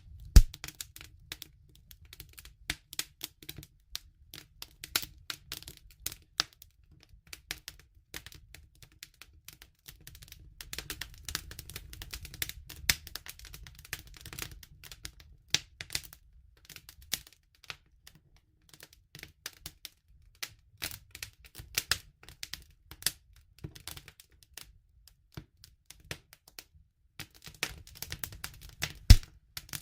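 Campfire of burning wood crackling: irregular snaps and pops, with two loud pops, one just after the start and one near the end, over a faint low rumble.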